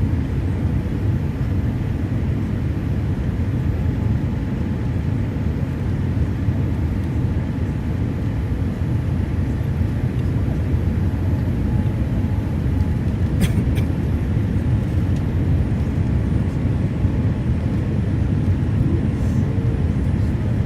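Steady low rumble of jet airliner cabin noise, from the engines and airflow, heard from inside the cabin, with one brief click about 13 seconds in.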